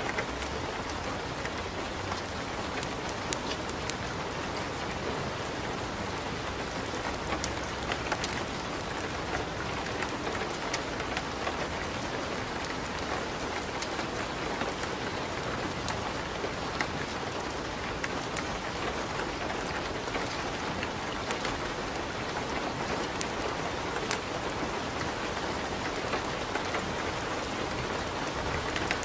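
Steady rain mixed with a crackling fireplace fire: an even hiss of rain with scattered sharp pops and ticks throughout.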